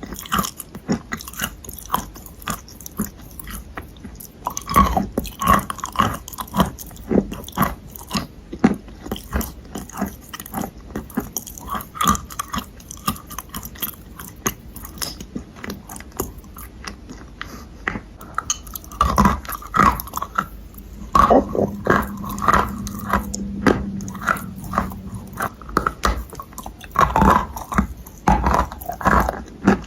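A person biting and chewing crunchy clay close to the microphone: a dense run of sharp, irregular crunches, louder and more clustered about two-thirds of the way through and again near the end.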